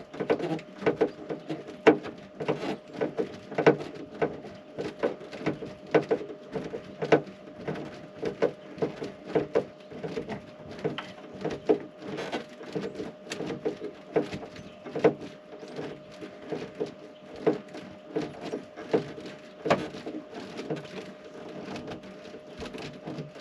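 Hand screwdriver working a screw tight: irregular small clicks and knocks, a few a second, over a steady hum.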